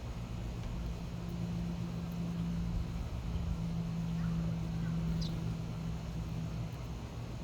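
Low, steady engine hum from a passing motor vehicle over a background rumble, swelling about a second in and fading out near the end. A single short, high bird chirp about five seconds in.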